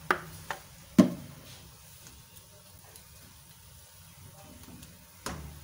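Vegetable masala frying in oil in a non-stick wok with a faint steady sizzle as it is stirred. A utensil knocks sharply against the pan a few times in the first second, loudest about a second in, and once more near the end.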